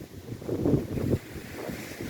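Strong gusting wind buffeting the microphone in irregular rumbling surges, over the rush of lake waves breaking on the shore.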